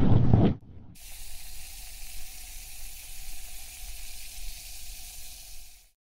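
A loud low rushing noise cuts off about half a second in. A steady high hiss with a faint hum beneath it then starts and runs until it stops abruptly near the end.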